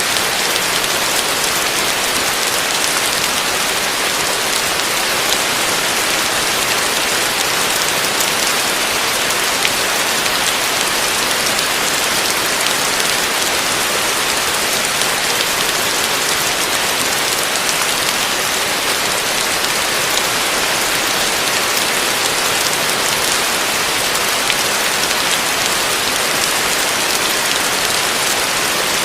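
Heavy rain falling steadily, an even hiss of dense drops with no thunder.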